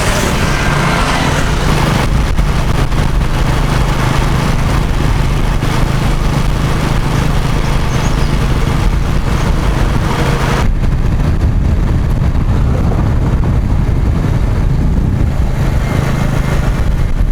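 A motor vehicle's engine running steadily at cruising speed on the highway, a low hum under a hiss of wind and road noise. About two-thirds of the way through the hiss drops away sharply, leaving mostly the engine's low hum.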